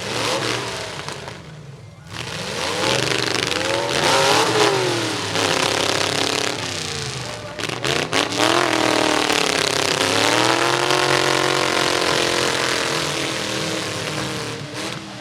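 Demolition derby truck engines revving hard, their pitch rising and falling again and again, with a few sharp breaks about halfway through.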